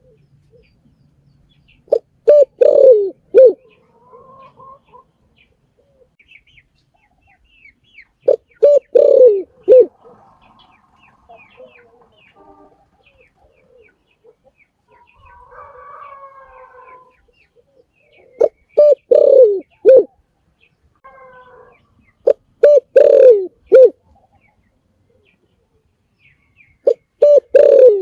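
Spotted dove cooing: five phrases, each a couple of short coos, a longer falling coo and a short closing note, repeated every four to six seconds. The last phrase falls right at the end.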